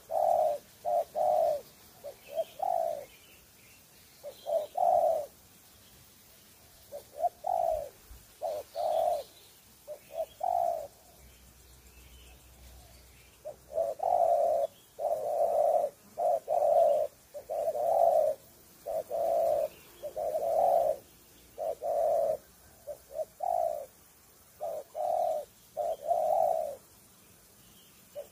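Wild spotted dove (tekukur) cooing: repeated short, low coo notes in phrases separated by pauses, with a long run of notes after a quiet stretch about halfway through.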